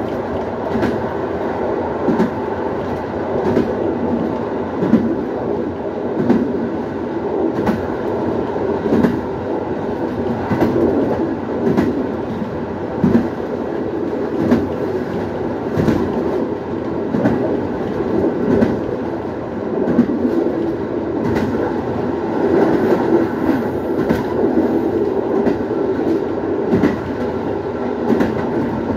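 Passenger train running over the rails, heard from its rear end: a steady rumble of wheels on track broken by irregular clicks as the wheels pass rail joints and points.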